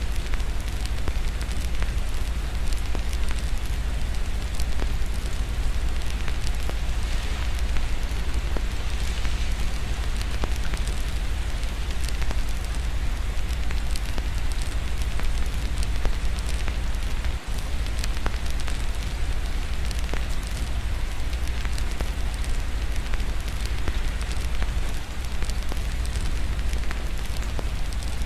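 Fireplace crackling, with many small pops and snaps, over a steady wash of rain and a constant low rumble.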